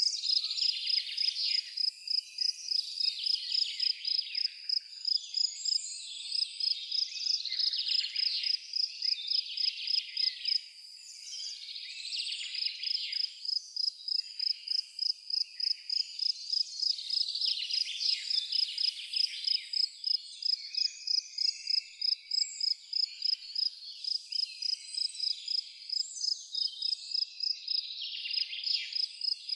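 Crickets chirping in a steady rhythm of about two chirps a second, pausing briefly about ten seconds in, with songbirds singing over them.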